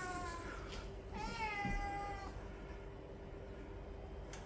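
A cat meowing: the tail of one meow right at the start, then one drawn-out meow about a second in that rises at first and then holds for about a second.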